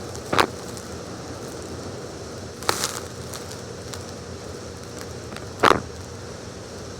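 Three short, sharp crackling sounds, about a second, three seconds and five and a half seconds apart, over a steady low hiss.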